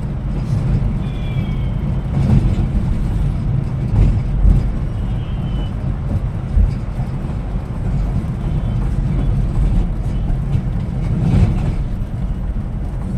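Bus running along the road: a steady low engine and road rumble, with a few faint short high squeaks and occasional knocks.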